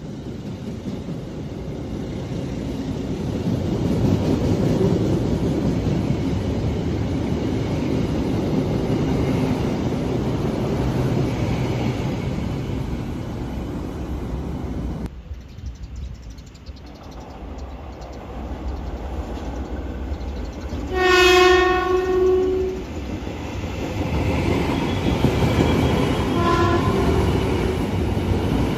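Train running through the station with a loud rumble and wheels clacking on the rails; the noise breaks off abruptly about halfway. A train horn then sounds for about two seconds, followed a few seconds later by a shorter, fainter horn blast.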